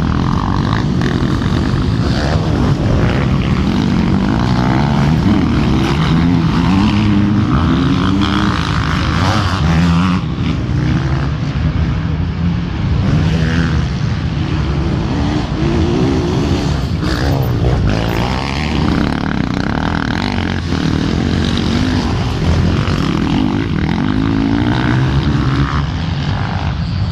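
Off-road motorcycle engines revving and running without a break, several at once, their pitch rising and falling continually.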